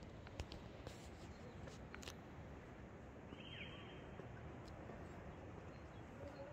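Faint outdoor ambience with a single short, high bird chirp a little over three seconds in, and a few light clicks in the first two seconds.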